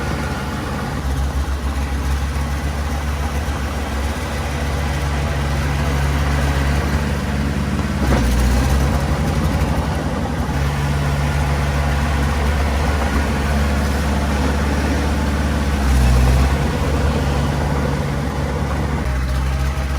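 Small Komatsu D20 bulldozer's diesel engine running steadily, with brief louder surges about eight and sixteen seconds in as it takes load pushing soil.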